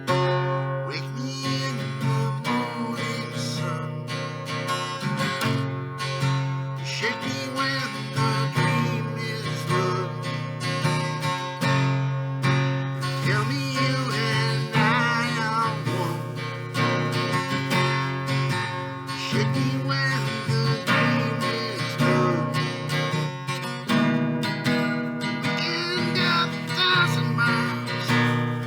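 Acoustic guitar strummed steadily, playing chords in a song.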